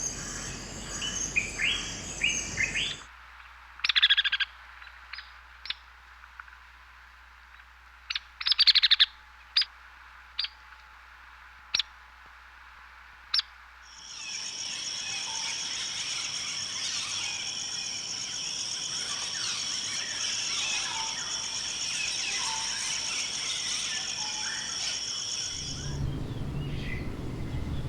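Tropical bird calls in a series of recordings: a few seconds in, single sharp calls spaced well apart over a quiet background, then from about halfway a dense chorus of chirping birds over a steady high-pitched buzz that stops abruptly near the end.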